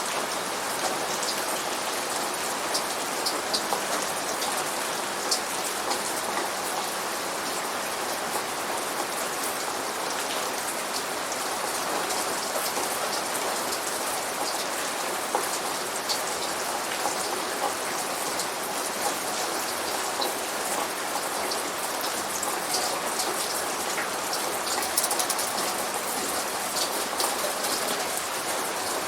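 Steady heavy rain, with many separate drops ticking sharply on a surface through an even hiss.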